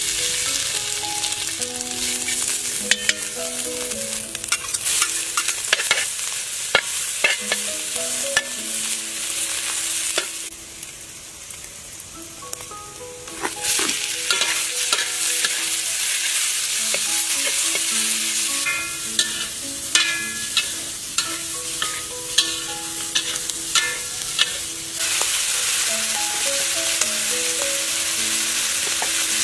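Fat and diced meat sizzling as they fry in a steel wok, with a metal spatula scraping and clicking against the pan as it is stirred. The sizzle drops quieter for a few seconds about a third of the way in, then picks up again.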